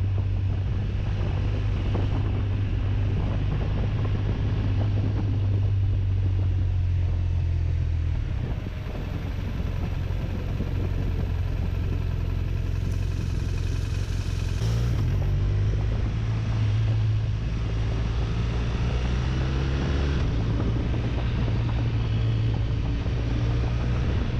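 BMW RT touring motorcycle's boxer-twin engine running on the move, with wind rushing past. The engine note drops back about a third of the way through and picks up again a little past halfway.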